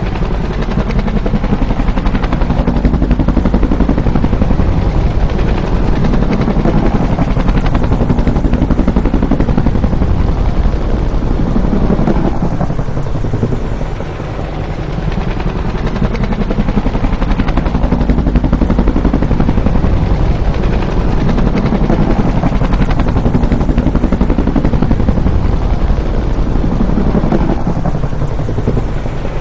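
Bell UH-1 "Huey" helicopter, its rotor beating with a rapid, even chop over the engine noise. Loud and steady, with a brief dip about halfway through.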